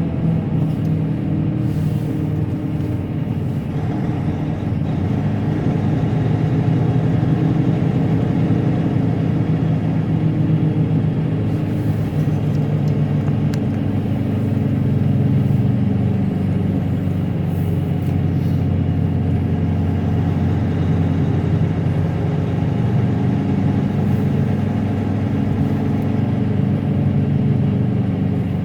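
Semi truck's diesel engine running steadily, with tyre and road noise, heard from inside the cab.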